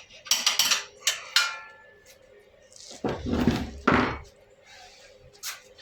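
Hand tools clinking and knocking on metal: several sharp clinks in the first second and a half, one ringing briefly, and more near the end. About three seconds in there is a soft rushing noise.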